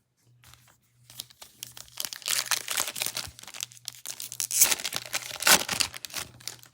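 Foil trading-card pack wrapper being torn open and crinkled, a few seconds of dense crackling that peaks twice near the end.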